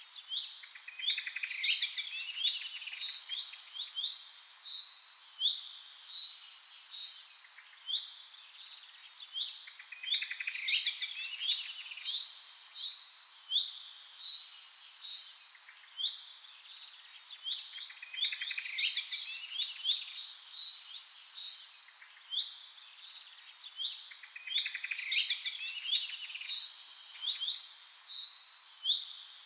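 Songbirds chirping and singing, with many overlapping high calls, quick rising notes and fast trills over a faint hiss. The same stretch of birdsong repeats about every eight seconds, as in a looped recording.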